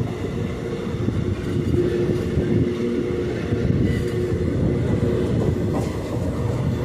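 Passenger train running slowly along the track, heard from aboard: a steady noise of wheels on rails with a faint steady hum.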